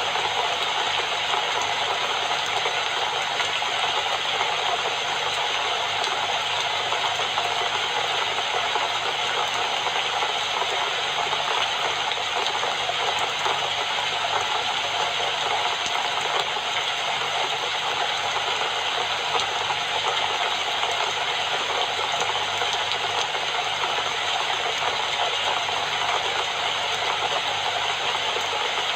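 Steady rain falling, an even hiss that keeps up without breaks.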